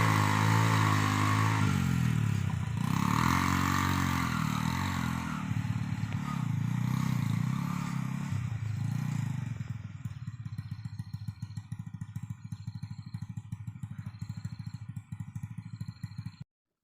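Honda Revo single-cylinder four-stroke motorcycle engine driving a homemade vehicle, its pitch rising and falling with the throttle. About ten seconds in it drops to a quieter, slower putter, and the sound cuts off abruptly near the end.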